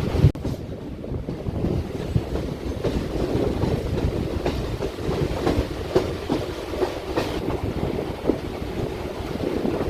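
Mumbai suburban local train running, heard from inside the coach: a steady rumble of wheels on track with irregular clicks and knocks over the rail joints.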